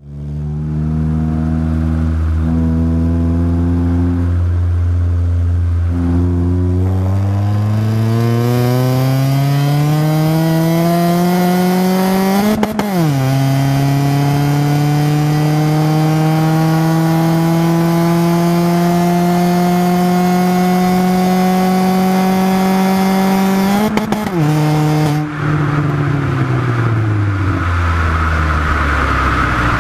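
Corsa C SRi's four-cylinder engine through a Piper performance exhaust, idling and then accelerating hard under load. The revs climb to the rev limiter and stutter there about twelve seconds in, drop after an upshift, and climb more slowly to the limiter again near 24 seconds. They then fall away as the throttle is lifted, with road and wind noise.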